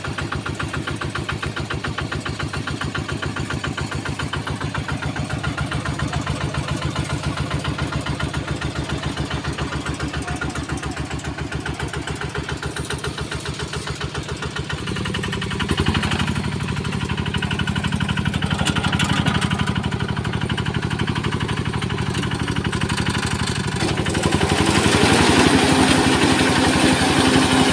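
Quick QH-11 combine harvester's engine running with a steady rapid beat. About halfway through it gets louder and fuller, and a few seconds before the end a harsher, hissier layer joins it.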